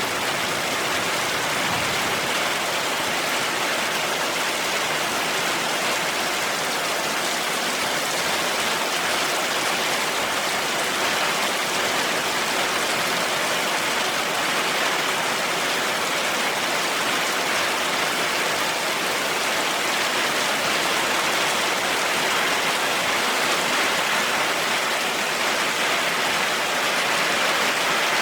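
Heavy rain falling steadily, an even hiss with no thunder or separate drops standing out.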